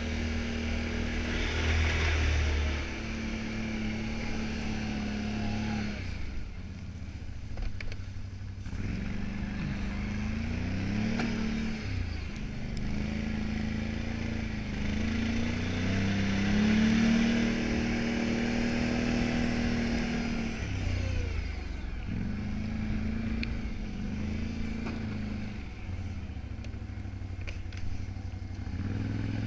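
Can-Am 570 XT ATV's V-twin engine running, its pitch rising and falling over and over as the throttle is opened and eased off.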